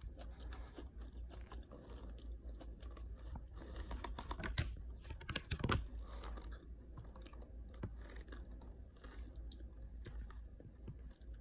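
A person chewing food with the mouth, making many small clicks and crunches, two louder ones about four and a half and five and a half seconds in.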